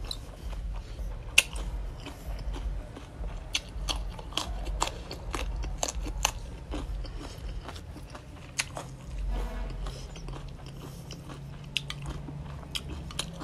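Close-miked chewing and crunching as spicy pickled chicken feet and raw okra are eaten, with many sharp, crisp crunches and clicks throughout. A low steady hum sits underneath in the second half.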